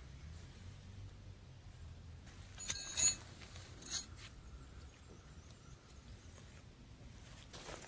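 A bright ringing clink of hard objects, metal or glass, knocked together about two and a half seconds in, followed a second later by a single sharp click, over faint steady background noise.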